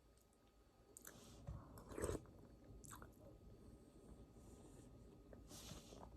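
Near silence: faint room tone with a few short, soft clicks and rustles scattered through it.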